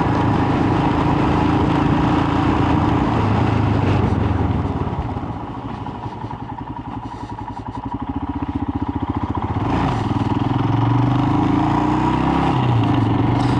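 Royal Enfield Himalayan's single-cylinder engine running under way, with wind and road noise. About five seconds in the revs drop and the engine's individual beats can be heard. The revs pick up again about ten seconds in as it accelerates.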